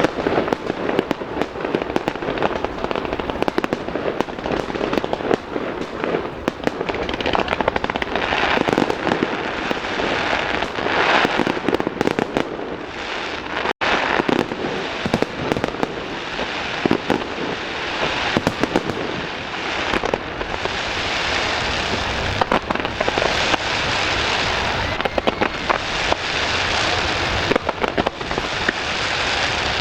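Fireworks going off continuously: dense popping and cracking of bursting shells, with swells of crackling effects that come and go.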